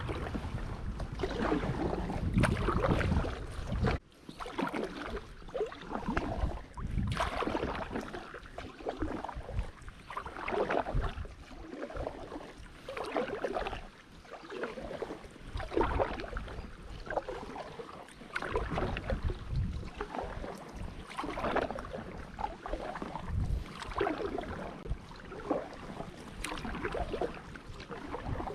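Kayak paddle strokes dipping into and pulling through the water in a steady rhythm, about one stroke every second and a half. Wind rumbles on the microphone for the first few seconds, then drops away.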